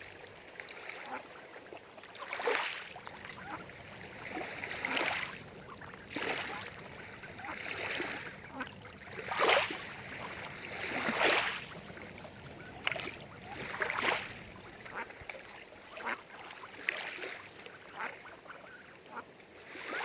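Mallard ducks quacking: a dozen or so short calls, one every second or two, over a faint background of lapping water.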